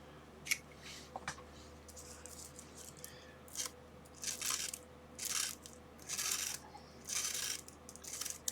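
Plastic bubble-wrap packaging rustling and crinkling in about five short bursts as it is cut open, after a few light clicks.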